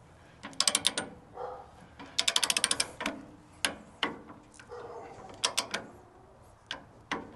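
Ratcheting torque wrench clicking in short runs as it tightens a band sawmill's blade-tension adjuster toward 25 pounds. The fastest run, about ten clicks, comes about two seconds in, with single clicks spaced out after it.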